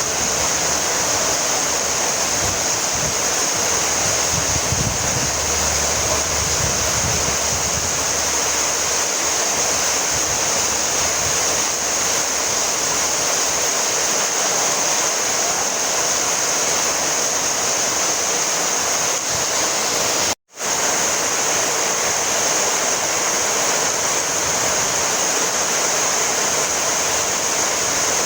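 Heavy rain falling steadily, a dense, even hiss, with some low rumbling in the first several seconds. About twenty seconds in, the sound cuts out completely for an instant and then resumes.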